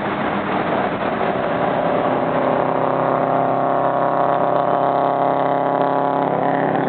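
Car engine running hard at high speed, with road and wind noise. It is rough and noisy at first, then settles after about a second and a half into a steady drone at a constant pitch.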